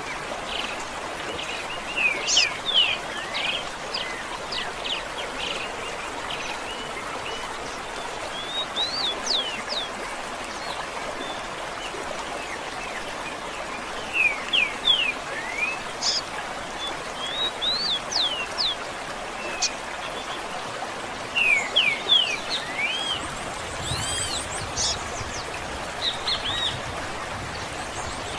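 Songbirds chirping in repeated quick clusters of short sweeping notes, with a few longer rising-and-falling whistles near the end, over a steady rushing sound like running water.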